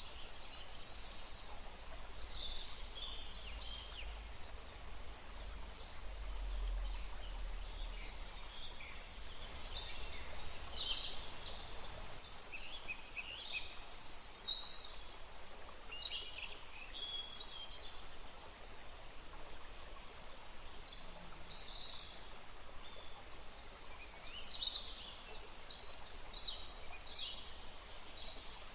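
Many small birds chirping and trilling in quick, high calls over a steady rush of wind in the trees, with a low rumble during the first eight seconds or so.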